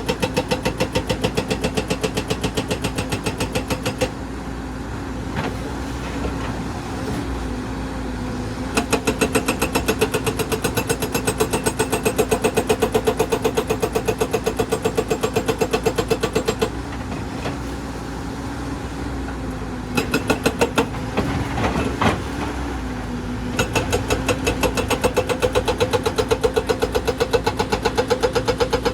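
Excavator's hydraulic rock breaker hammering in runs of rapid, evenly spaced blows, several a second. It stops and starts again three times over the excavator's steadily running engine.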